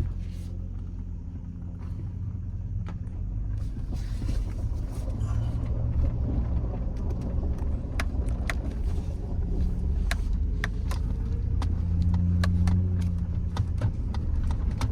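2006 GMC Sierra 1500's 5.3-litre V8 and its slightly louder exhaust, heard from the cab while driving: a steady low drone with road noise. It swells about four seconds in and again near the end, and scattered light ticks come in the second half.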